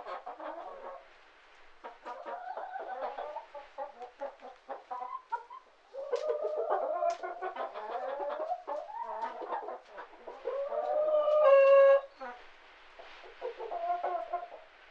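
Hen cackling in the call a hen gives around laying an egg: rapid clucks building to a loud, long drawn-out cackle about eleven seconds in that breaks off sharply, then quieter clucking.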